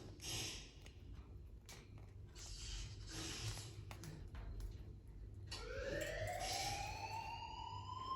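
Cockatiel pecking at couscous: soft clicks and rustling crunches. About five and a half seconds in, a long whistle starts and rises slowly in pitch, still going at the end.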